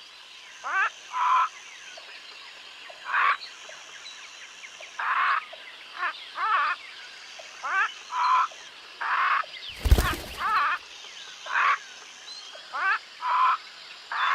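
Parrot calling: short squawks, mostly in pairs, repeating every second or two. About ten seconds in there is one sharp knock.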